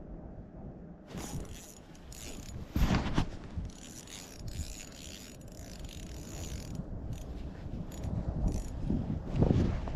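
Small ice-fishing reel being worked in uneven bursts, its gears and clicker ratcheting, starting about a second in, with some low handling noise near the end.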